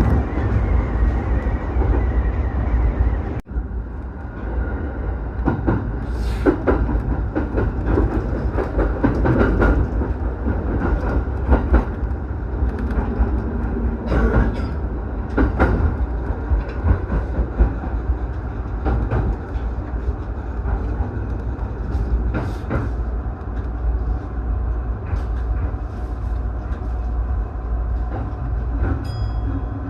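Kawagoe Line electric commuter train running between stations: a steady low rumble with irregular clicks of the wheels over the rails, heard from on board.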